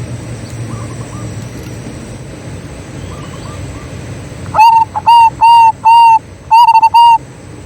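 Zebra dove (perkutut) singing its cooing song: a run of six loud, clear notes over about two and a half seconds, starting past the middle, over a low steady background rumble. Fainter coos from another dove can be heard earlier.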